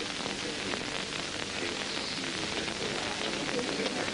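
Steady hiss with scattered small crackles, the surface noise of an old film soundtrack.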